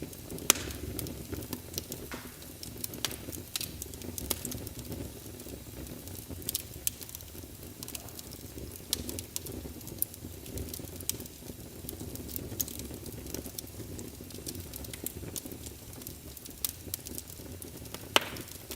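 Fire burning in a fireplace: steady low rumble of the flames with irregular crackles and sharp pops, the loudest pops about half a second in and near the end.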